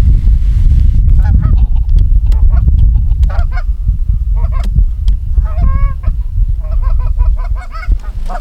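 Goose honking and clucking: a run of short, cracking honks, some in quick series, over a heavy low rumble.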